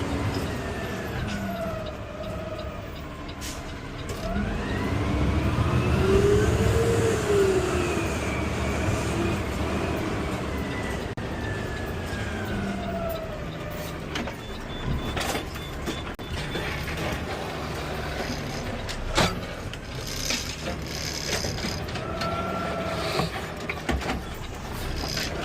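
Peterbilt 520 automated side-loader garbage truck's CNG engine running, its pitch rising and falling in long smooth swells. A few sharp knocks and clanks come through, the loudest about two-thirds of the way through.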